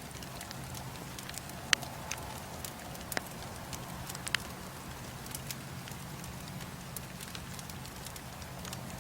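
Bonfire burning with scattered sharp pops and crackles from the burning wood, the loudest pop a little under two seconds in, over a steady low hum.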